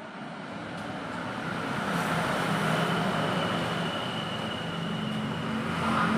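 A motorcycle engine running, growing louder over the first two seconds and then holding steady, with a thin high whine above it.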